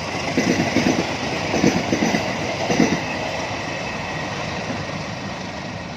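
Passing train's wheels clacking over rail joints, a cluster of heavy knocks in the first three seconds, then a steady rumble that slowly fades.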